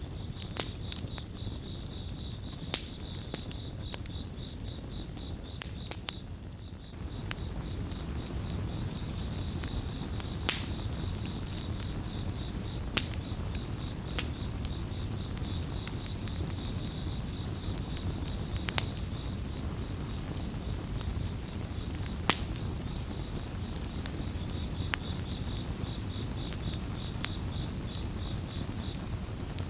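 Campfire burning with a low rush and sharp crackling pops every few seconds. A cricket chirps throughout in a steady, high, pulsing trill. The fire's rush grows louder about seven seconds in.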